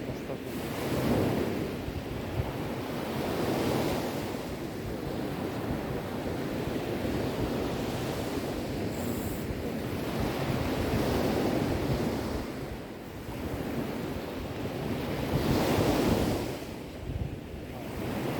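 Sea waves breaking and washing on the shore, a continuous surging roar that swells and eases every few seconds, the biggest surge coming near the end.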